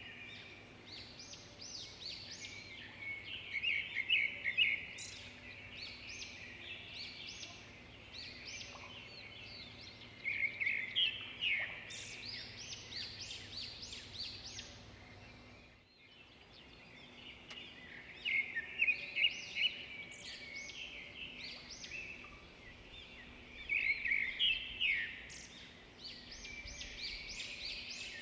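Small birds chirping continuously, with louder bursts of rapid chirps every several seconds and a brief drop-out about halfway through.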